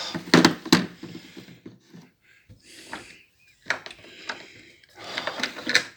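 A series of small clicks and knocks, two sharp ones near the start and more around four seconds in, with a brief rustle in between: hands handling a model locomotive and track parts on an O gauge layout.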